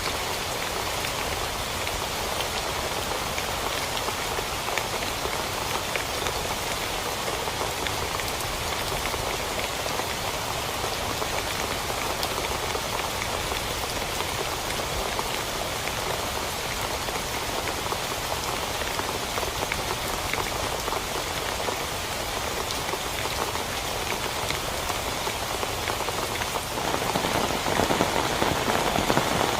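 Steady rain falling on a tent, growing louder a few seconds before the end.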